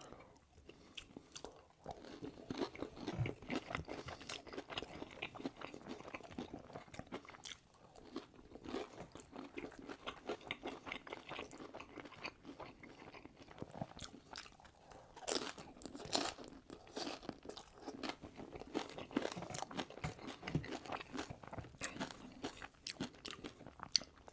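Close-miked ASMR eating sounds: a person biting into and chewing burgers. Many small irregular crackles and clicks, with a louder bite now and then.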